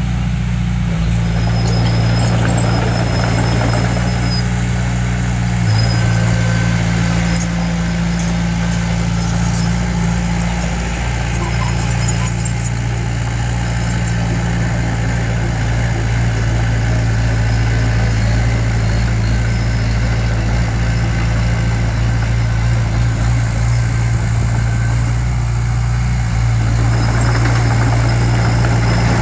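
Heavy construction machinery's diesel engine running steadily, with some thin high squeaks in the first few seconds.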